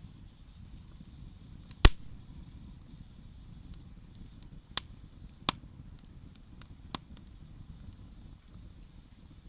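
Wood fire burning with a low steady noise and sharp crackling pops: one loud pop about two seconds in, then three smaller ones a few seconds later.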